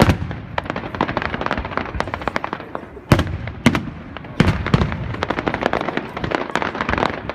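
Aerial fireworks: dense, rapid crackling of many small bursts, with a loud bang at the start and more loud bangs about three, three and a half and four and a half seconds in.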